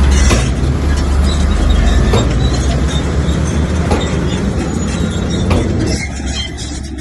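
Komatsu crawler bulldozer's diesel engine running hard, with metallic squealing and clanking from its steel tracks. The sound eases off about six seconds in.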